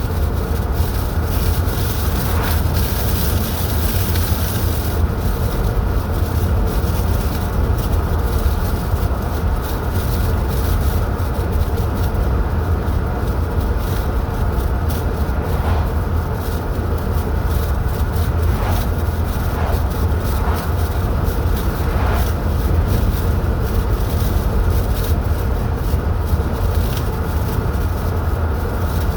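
Steady road and engine noise of a car driving, a deep rumble with hiss over it.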